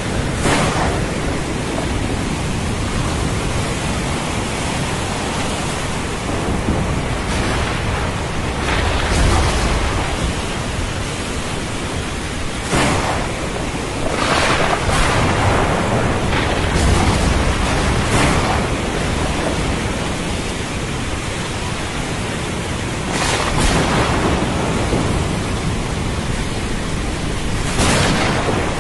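Thunderstorm over the sea: a steady rush of rain and surf, broken by about ten sharp crashes and low rolling rumbles of thunder.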